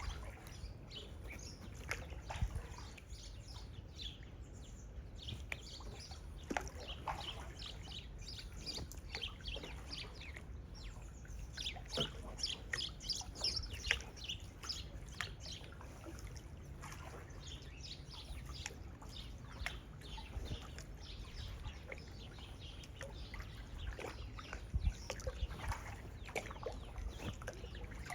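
Small birds chirping in quick, repeated notes, busiest about halfway through, over a steady low rumble.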